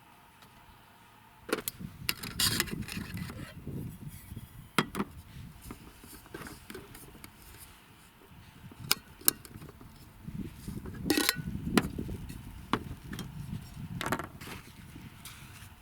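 Irregular knocks, snaps and rustling of something being handled close by, with a few sharper cracks about five, nine, eleven and fourteen seconds in.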